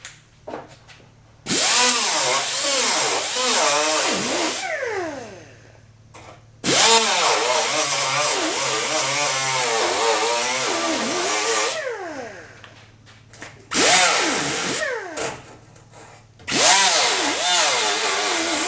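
Handheld power tool spinning a cleaning wheel against the sheet metal of a trunk seam, run in four bursts, its pitch wavering under load and falling as it spins down after each one. It is clearing dirt out of the seam so that flux and solder can take.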